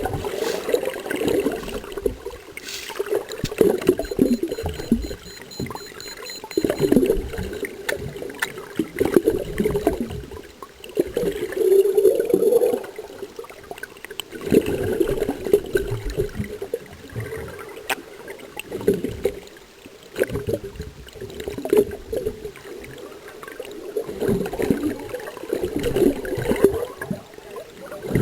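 Water sloshing and gurgling in uneven surges that rise and fall every second or two.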